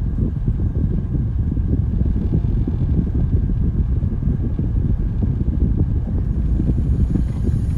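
Low, steady rumble of a vehicle moving along the road, with wind buffeting the microphone.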